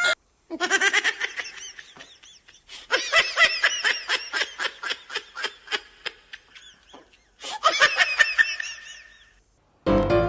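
High-pitched laughing in quick pulses, several a second, coming in three runs with short breaks between them.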